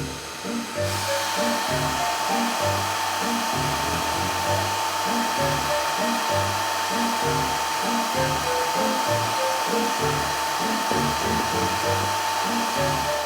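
Rhythmic background music with a bass line and a simple melody. About a second in, a steady whirring hiss with a high hum comes in over it and holds at a constant pitch.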